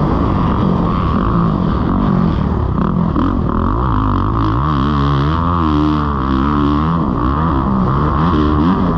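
Kawasaki KX450 four-stroke single-cylinder motocross engine being ridden hard, its revs rising and falling repeatedly as the throttle is opened and rolled off.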